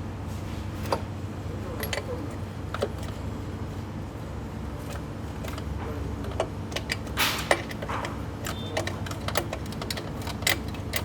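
Scattered sharp metallic clicks and clinks of hand tools working on an opened engine, thickening in the second half, over a steady low hum.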